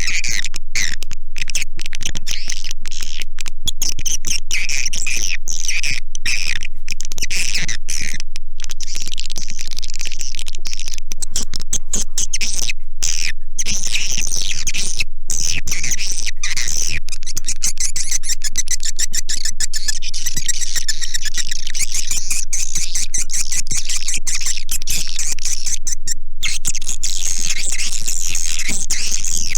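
Swiftlet call recording of the kind played to lure edible-nest swiftlets into a bird house: a dense, unbroken chatter of rapid high chirps and twitters from many birds at once, cut by many brief gaps.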